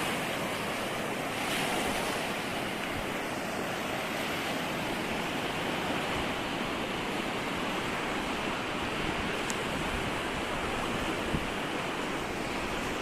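Ocean surf washing in steadily on a sandy beach.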